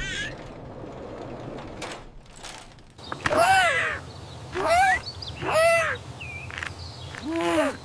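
A crow cawing four times, about a second apart, each caw rising and then falling in pitch, over a faint steady background.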